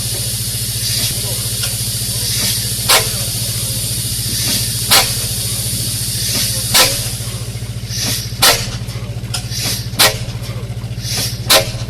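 An old engine running slowly over a steady low hum and hiss, with a sharp crack about every two seconds that comes a little faster toward the end.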